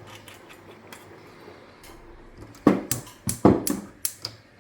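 Kitchen clatter at the stove while oil goes into the pan for cooking chicken: a few faint ticks, then, a little past halfway, a quick run of six or seven loud, sharp knocks and clicks over about a second and a half.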